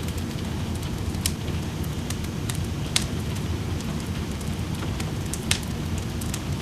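Wood fire crackling in a fireplace, with scattered sharp pops (the loudest about a second, three seconds and five and a half seconds in), over a steady low rush of rain.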